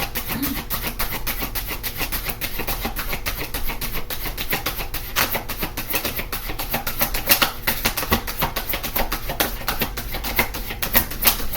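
A tarot deck being shuffled by hand: a fast, continuous run of card clicks and flaps.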